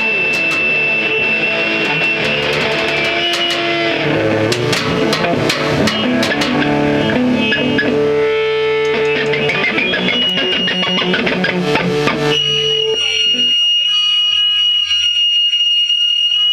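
Live rock band playing with electric guitar, bass and drums, the music stopping about 13 seconds in. A steady high-pitched whine carries on after the music stops.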